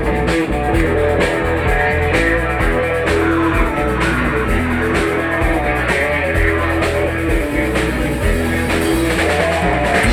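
A rock band playing live: electric guitar and bass over a steady drum-kit beat, an instrumental passage with no singing.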